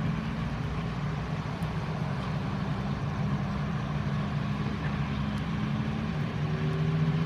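Boeing 737-800 running on the ground after pushback and start, a steady hum with a steady background hiss.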